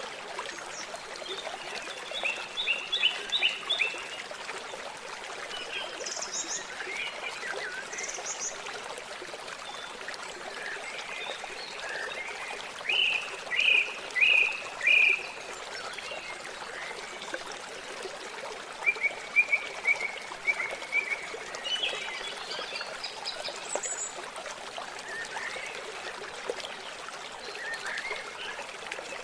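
Water running and trickling steadily, with birds calling over it in short runs of quick chirps; the loudest run, about four notes, comes near the middle.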